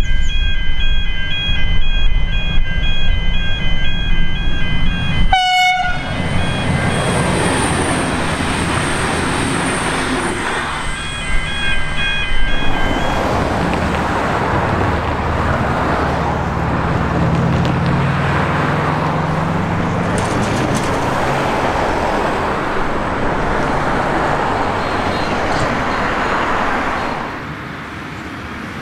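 V/Line VLocity diesel multiple unit running toward the level crossing, its diesel engine under a repeating electronic ringing, the crossing's warning bells. After a sudden break about five seconds in, steady road traffic noise, with the bells ringing again briefly around the middle.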